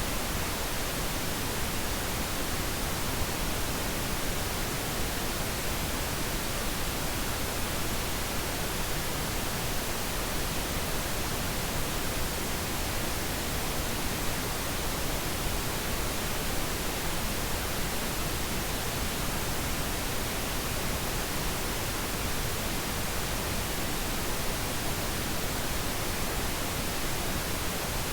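Steady pink noise, an even, unchanging hiss spread across the whole range, played as a sleep aid for a baby.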